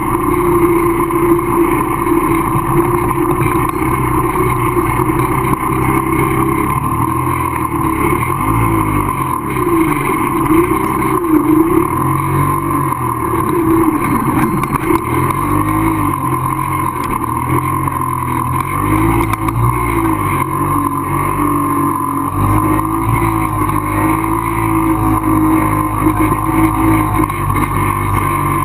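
Small 100cc motorcycle engine running at low speed, heard close from on the bike. Its pitch holds steady at first, then rises and falls again and again as the throttle is worked through loose landslide mud and rock.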